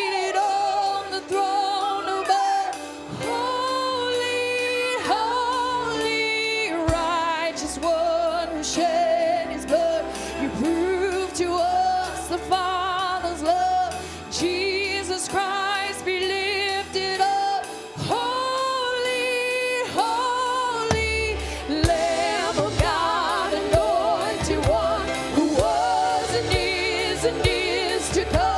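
Live gospel worship music: voices singing long held notes with vibrato over a steady band accompaniment.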